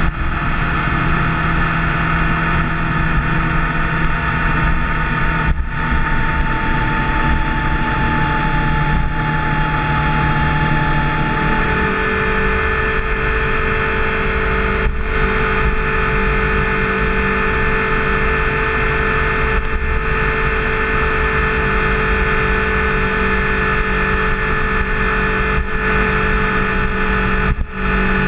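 Motorcycle engine running at steady road speed with wind rushing past. The engine note steps up about twelve seconds in, and the sound dips briefly three times.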